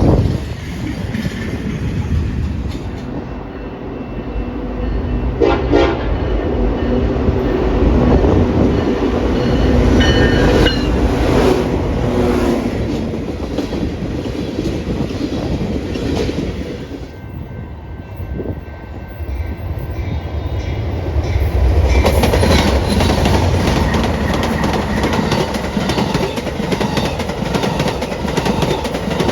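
A train running past with a steady rumble of wheels and cars. Its horn sounds briefly about six seconds in.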